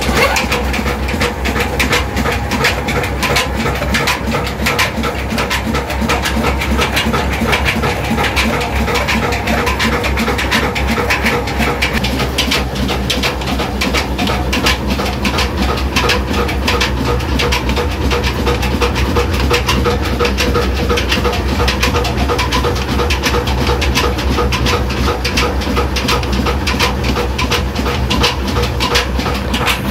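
An old stationary engine driving a stone flour mill, running steadily with a fast, even knocking over a low rumble.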